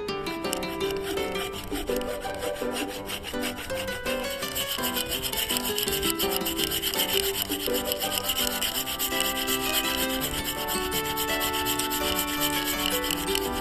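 A cheap 100-yen-shop handsaw cutting through a wooden log in continuous back-and-forth strokes, a steady scraping rasp of teeth on wood that grows louder over the first few seconds.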